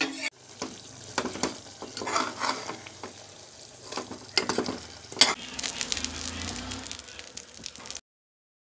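Food sizzling in a hot pan, with a metal spoon clinking and scraping against a pot. It is dotted with sharp knocks and cuts off suddenly near the end.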